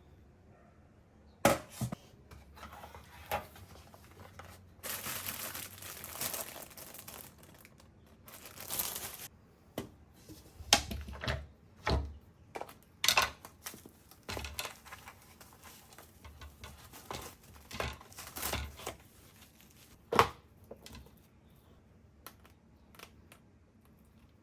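Plastic bags and packaging crinkling and rustling as groceries are handled and unpacked, with irregular sharp clicks and knocks as items are set down.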